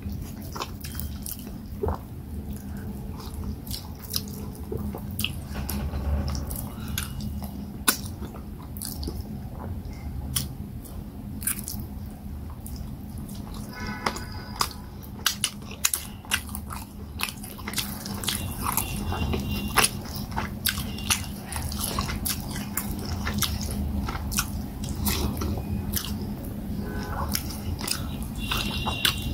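Close-miked eating sounds of fufu with peanut soup eaten by hand: wet chewing, lip smacks and many sharp mouth clicks, over a faint steady low hum.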